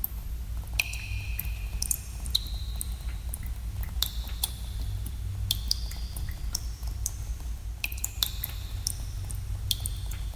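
Water drops falling in a cave, each a sharp plink, many with a short ringing tone after it, irregularly spaced a few to the second, over a steady low rumble.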